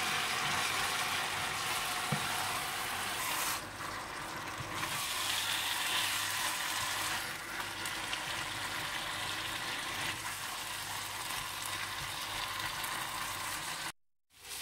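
Raw minced beef sizzling steadily as it fries in oil and onion-tomato masala in a pot, stirred with a spatula. The sound drops out briefly near the end.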